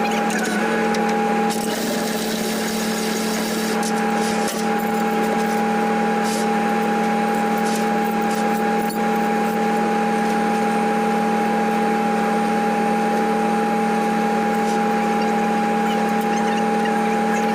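Tow truck's engine running at a steady speed, a constant droning hum that does not change, with a few faint clicks.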